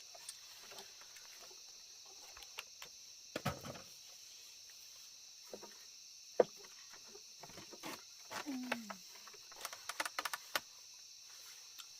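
Insects trilling steadily in a high, even band, with scattered clicks and knocks on top, one sharper knock about six seconds in and a quick cluster of clicks near the end.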